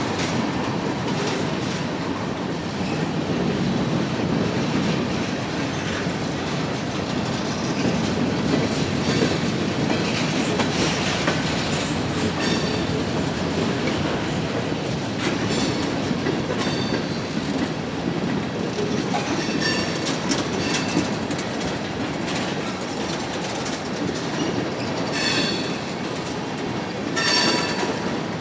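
Freight cars of a mixed freight train rolling past, with a steady rumble and wheels clacking over the rail joints. Near the end come two short, high wheel squeals.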